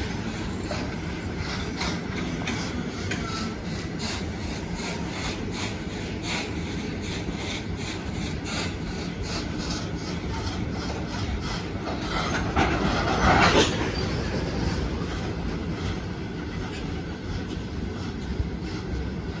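Loaded freight train of covered hopper wagons rolling past close by: a steady rumble with the wheels clacking in a regular rhythm over the rail joints. About two-thirds of the way through the noise briefly grows louder and harsher.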